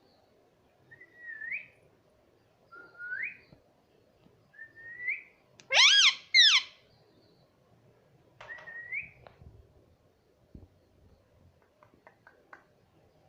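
A young pet parrot calling: short rising whistles every couple of seconds, and two loud, harsh calls in quick succession about six seconds in. A few faint clicks near the end.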